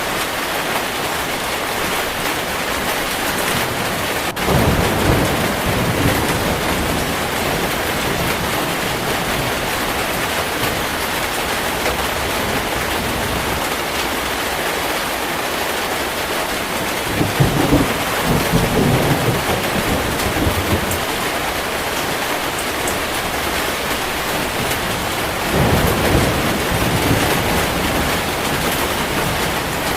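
Steady heavy rain with thunder rumbling three times: briefly about four seconds in, longer midway, and again near the end.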